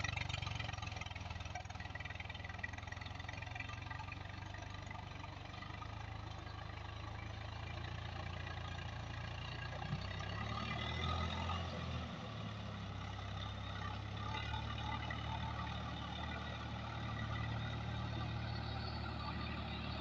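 Swaraj tractor's diesel engine running steadily while puddling in heavy mud, with a brief change in the engine note about halfway through.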